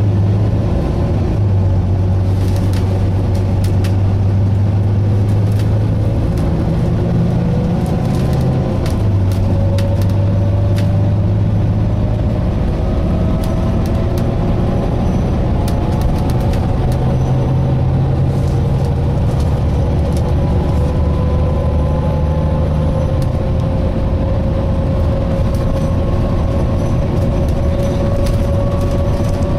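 Interior of a Volvo B9TL double-decker bus under way: a steady low engine drone that changes in steps, with a thin driveline whine that slowly rises in pitch as the bus gathers speed. Scattered clicks and rattles from the bodywork run through it.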